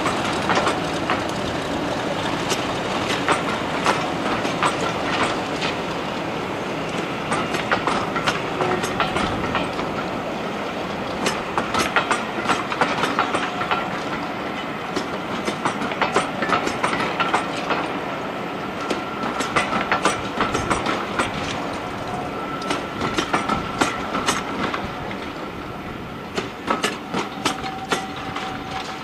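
Train hauled by a Class 50 diesel locomotive rolling past, its wheels clicking over the rail joints in a continuous clickety-clack over a steady rumble, easing off slightly near the end.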